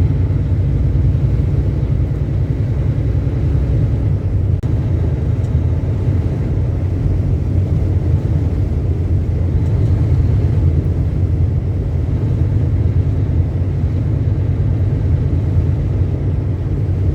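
Semi truck cab while driving: a steady, loud low rumble of engine and road noise with no change in speed.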